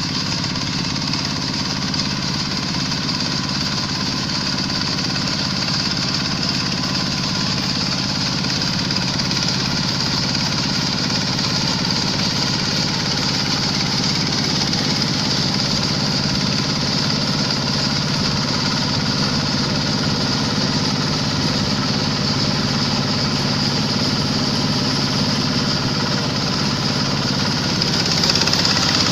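Kubota diesel engine of a Quick H-140R rice combine harvester running steadily, a little louder near the end.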